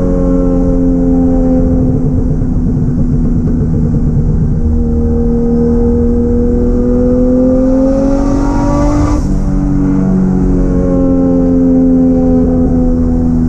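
Turbocharged Toyota 1JZ-GTE VVTi straight-six running under way, its pitch climbing slowly with a high hiss building, then dropping suddenly about nine seconds in before settling at a steady pitch again.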